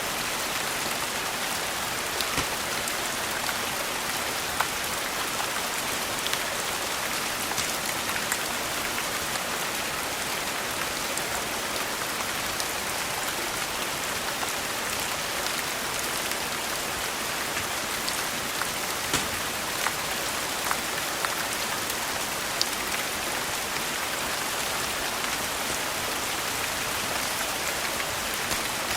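Steady rain falling, with scattered sharp pops from a crackling wood fire now and then.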